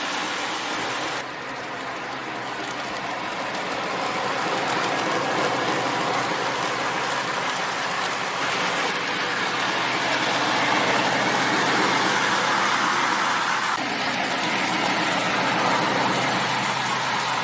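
Train running: a steady rolling noise with no clear beat, which changes abruptly about a second in and again near the end.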